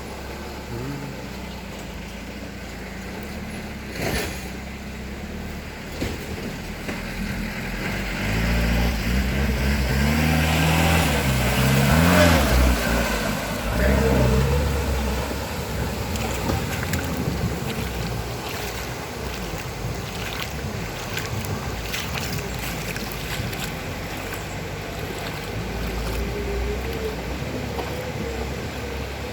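Motor engine running with a steady low rumble; its pitch rises and falls as it grows louder, peaking about halfway through, then settles back to a steady hum.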